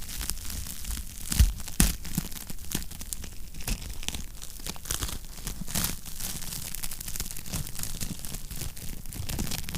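Wood fire crackling in a fireplace, with many small pops and two louder pops about a second and a half in, over a low steady rumble.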